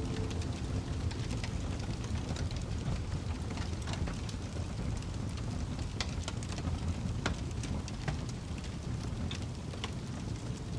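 Wood fire crackling in a fireplace: a steady low rumble with sharp pops and snaps at irregular intervals.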